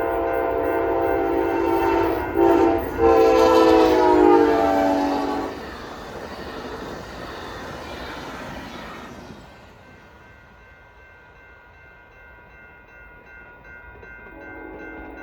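Amtrak passenger train locomotive horn blowing loudly for the grade crossing, with two short breaks in the blast. Its pitch sags as it passes and it cuts off about five seconds in. The train then rolls through with a rushing, rumbling noise that fades away about nine seconds in.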